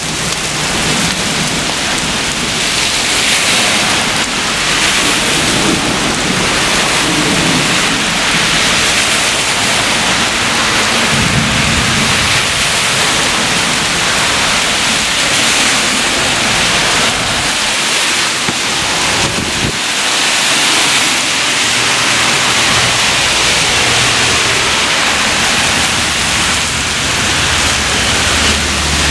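Heavy rain pouring steadily, a loud, even hiss of a downpour from a severe thunderstorm.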